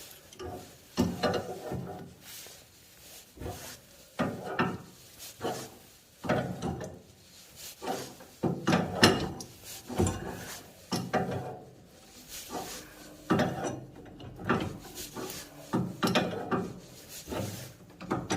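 Adjustable wrench loosening a union on a heating manifold's copper and brass pipework: irregular clicks, knocks and scrapes of the tool working on the fittings, about one or two a second.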